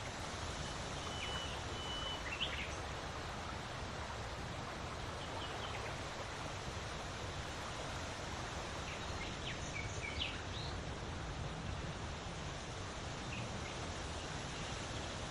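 Wind blowing steadily with a low rumble, while a few birds give short high chirps near the start, around the middle and near the end.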